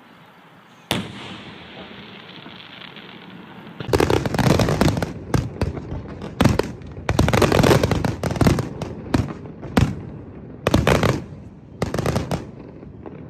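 Fireworks going off: a single bang about a second in, then from about four seconds a rapid barrage of bangs and crackles.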